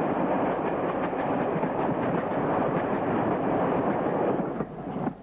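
Diesel train running along the line, a steady rumble and rattle of wheels on the rails, dropping away near the end.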